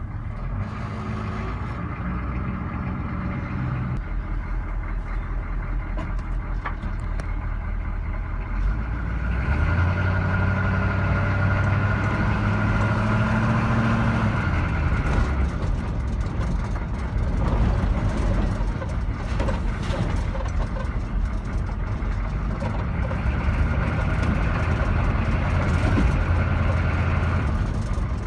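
Chevrolet K10 truck's 6.2-litre diesel V8 running cold with its high idle not working. The revs climb about nine seconds in, drop back around fifteen seconds, and climb again near the end.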